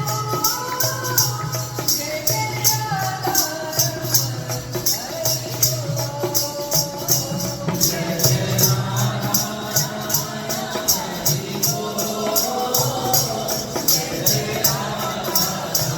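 Devotional bhajan singing with a steady beat of shaken jingles, several strokes a second, over a low drone.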